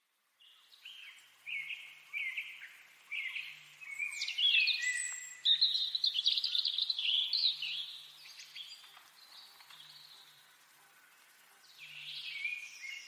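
Birds chirping and trilling in a busy run of high calls, loudest midway, fading for a few seconds, then picking up again near the end.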